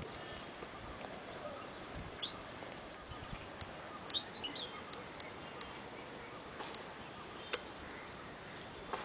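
Faint outdoor hush with a few short, high bird chirps, once about two seconds in and a small cluster around four seconds.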